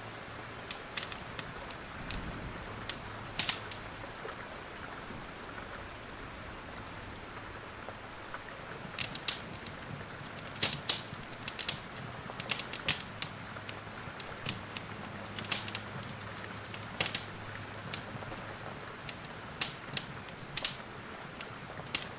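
Steady rain hiss with irregular sharp crackles and pops from a wood fire in a fireplace, sometimes several pops in quick succession.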